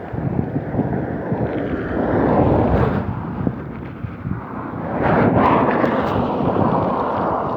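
Wind buffeting the microphone while riding, a loud rushing noise that swells twice.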